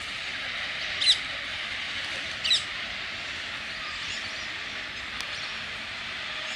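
Two loud, sharp bird calls, each falling quickly in pitch, about a second and a half apart, over a steady high hiss.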